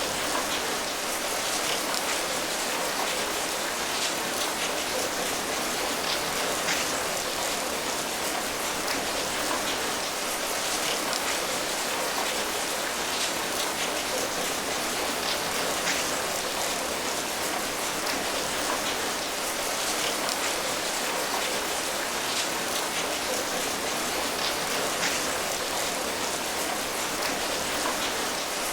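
Steady rainfall, an even hiss of rain with scattered individual drops pattering on a surface.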